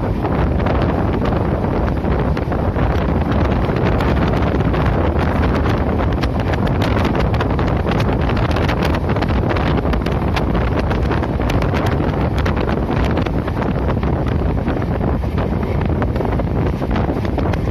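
Wind blasting the microphone from a moving passenger train, with the steady noise of the running train beneath and many quick irregular clicks and rattles over it.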